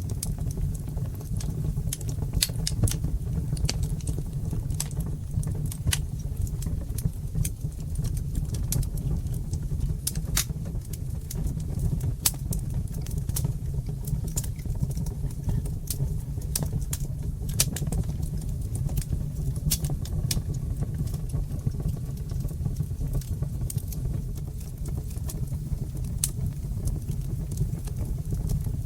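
Wood fire burning in a brick fireplace: irregular sharp crackles and pops, a few each second, over a steady low rumble of the flames.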